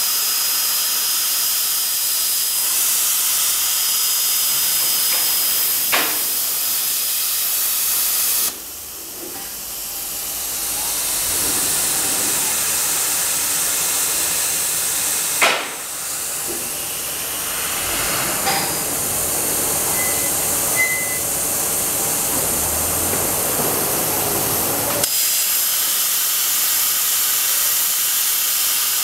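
CNC plasma cutting torch hissing steadily as it cuts. The hiss drops suddenly about eight seconds in and builds back over a few seconds, with sharp cracks at about six and fifteen seconds.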